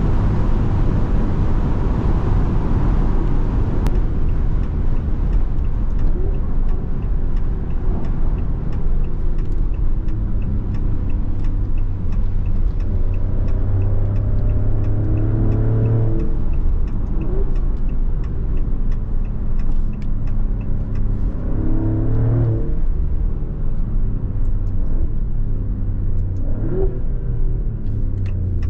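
Maserati Grecale Trofeo's twin-turbo V6 pulling hard under steady road rumble, its pitch rising and then dropping sharply at each of about three upshifts.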